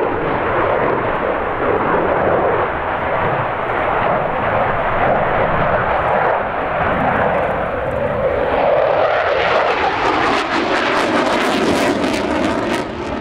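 Jet roar of a MiG-29's twin Klimov RD-33 turbofans flying a display. It is a steady loud rush that grows harsher and crackles over the last few seconds.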